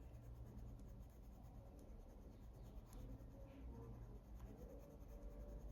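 Faint scratching of a coloured pencil shading on paper, with a few light ticks.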